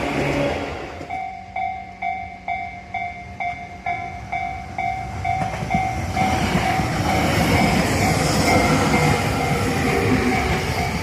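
Japanese level-crossing warning bell ringing about twice a second, then a Tobu Tojo Line train passing with a rising rumble and wheel clatter that drowns the bell.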